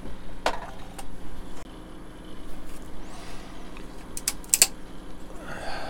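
Glued plastic model-kit parts being prised and snapped apart by hand: scattered sharp clicks and cracks, with a quick cluster of them, the loudest, about four seconds in, as the old glue gives way.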